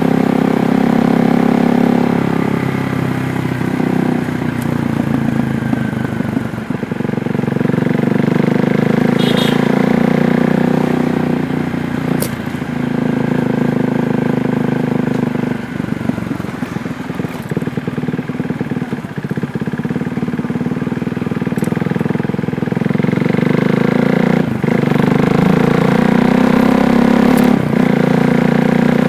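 KTM Duke 390's single-cylinder engine running under way, its note easing off and building back up several times as the throttle is opened and closed. A few brief clicks are also heard.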